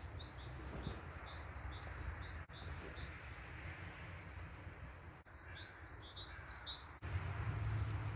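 A bird chirping: a quick run of short, high chirps, a pause of about two seconds, then a second run, over a low steady background rumble.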